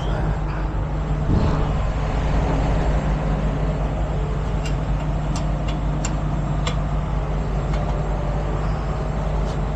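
Heavy tow truck's engine idling steadily, with a few light metallic clicks of chain being handled about halfway through.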